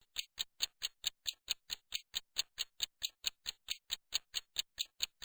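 Clock-ticking sound effect: quick, even ticks, about four or five a second, some slightly louder than others.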